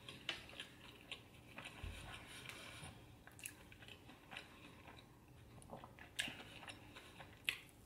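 Quiet, close-miked chewing while eating: soft wet mouth clicks and smacks at irregular intervals, with a sharper one about six seconds in and another near the end.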